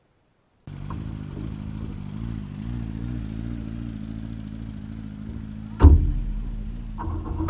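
Vehicle engine running with a wavering pitch, interrupted by two loud thumps, one about six seconds in and one near the end.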